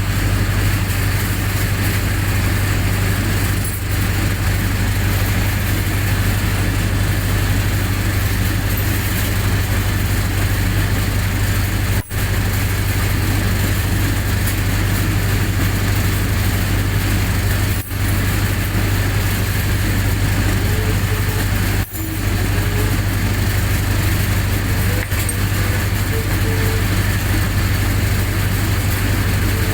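Generator set's engine running steadily at constant speed, a continuous deep hum. The sound cuts out for an instant three times.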